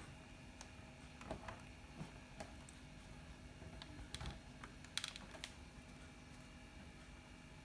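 Faint computer keyboard, about eight separate keystrokes clicking at irregular intervals over a faint steady hum.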